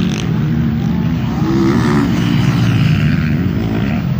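Several motocross bikes racing, their engines revving up and down together in a steady, loud drone.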